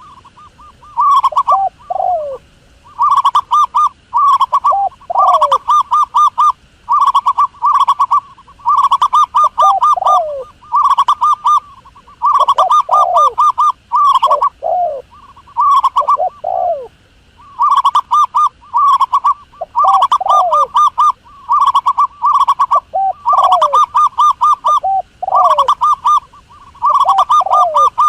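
Dove calls repeated over and over as a call-back recording: rapid trilled coos at a steady pitch, phrase after phrase every second or two, mixed with short notes that slide downward.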